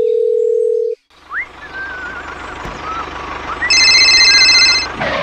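A steady electronic beep lasting about a second. After a short gap comes a hiss with warbling whistle-like tones, then a loud, high-pitched beep about a second long near the end.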